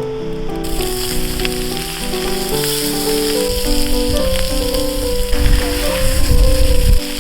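Food frying with a steady sizzle that starts just under a second in, under background music with a simple stepping melody. Low rumbling knocks grow louder through the second half and cut off sharply just before the end.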